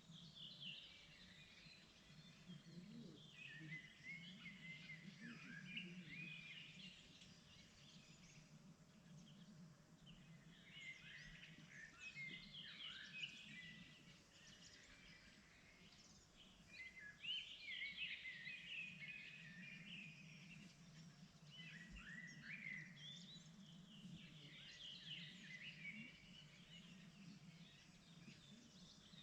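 Spring birdsong, faint: several small songbirds chirping and trilling in short overlapping phrases that come and go, over a steady low background hum.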